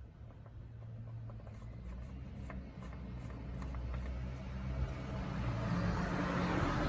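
Car engine running, its sound growing steadily louder, with a few faint ticks in the middle.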